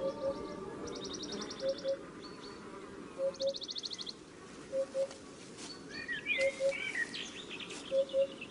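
Birds calling over a steady background: a low double note repeated about every second and a half, fast high-pitched trills, and scattered chirps and short whistles, as soft music fades out in the first second.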